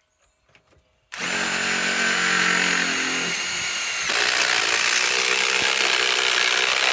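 Ryobi PSBIW25 compact cordless impact wrench driving a large fastener into wood. It starts about a second in and runs steadily for about six seconds. About four seconds in it turns harsher and louder.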